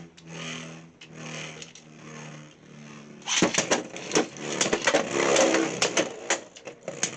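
Beyblade X tops and launchers: a steady pitched whir in three short pulses, then about three and a half seconds in the tops are launched into the stadium and clash, with a rapid run of sharp clicks and clatter.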